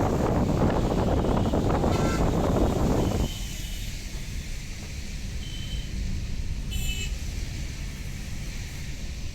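Road traffic on a windy day: wind buffets the microphone for about three seconds, then stops abruptly, leaving a low traffic rumble. Two short horn toots sound, one about two seconds in and one about seven seconds in.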